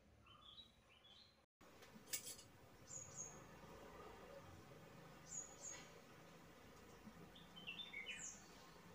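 Faint bird chirps over a quiet garden background: short high two-note calls a couple of seconds apart, then a quick falling run of chirps near the end.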